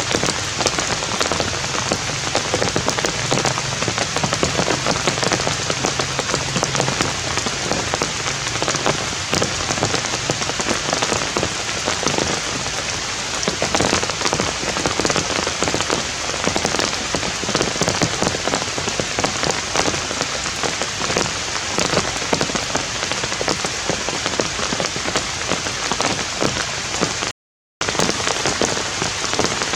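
Heavy rain falling steadily, a dense patter of drops hitting a surface. It cuts out completely for a split second near the end.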